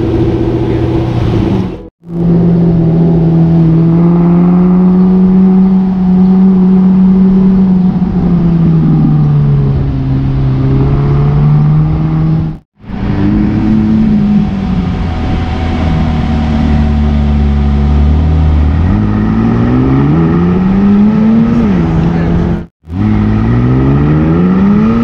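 Supercar V8 engine running at low, steady revs while cruising, then climbing twice in rising pulls near the end as it accelerates. The sound breaks off briefly three times.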